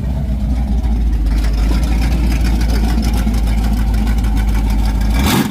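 Car engine idling with a steady low rumble. A brief loud noise near the end, after which the engine sound drops a little.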